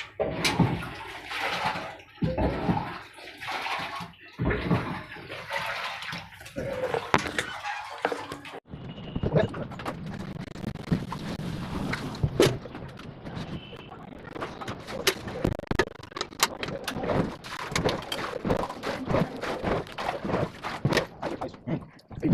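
Water splashing and sloshing with scattered knocks during the washing of a water tank, with voices in roughly the first third.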